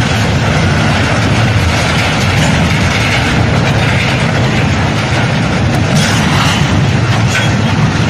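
Railway wagons of a train rolling slowly along yard track: a steady low rumble with a few faint clicks of wheels over rail joints in the second half.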